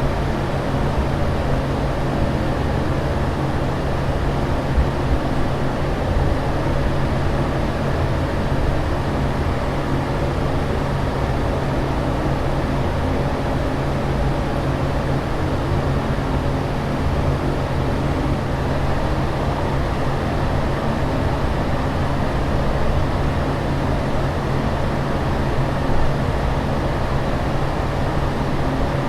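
Steady in-flight airliner cabin noise: an even rushing drone, heaviest in the low end, with a constant low hum underneath and no change in level.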